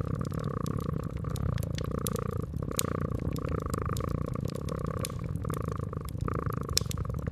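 Domestic cat purring steadily, with the snaps and pops of a crackling wood fire scattered throughout.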